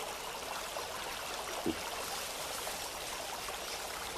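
Swollen river water running steadily, with a single short knock or splash about one and a half seconds in.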